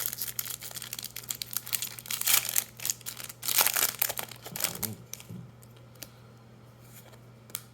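Plastic-foil Magic: The Gathering booster pack wrapper being torn open and crinkled, a dense crackle for about five seconds, then only a few faint clicks.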